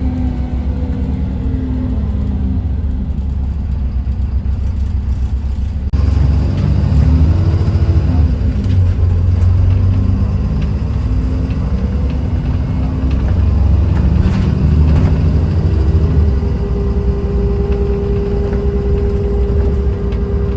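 Dennis Trident 2 Enviro400 double-decker bus's replacement engine running under way. It gets louder about six seconds in as the bus accelerates, and the engine note rises and falls with the revs. A steady whine sets in near the end.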